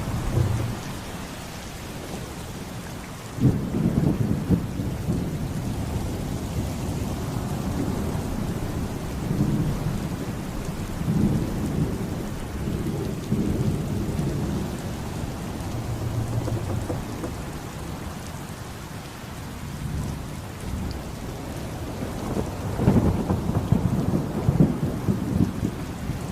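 Steady rain with rolling thunder from a thunderstorm. A loud rumble starts about three and a half seconds in, and another swells near the end.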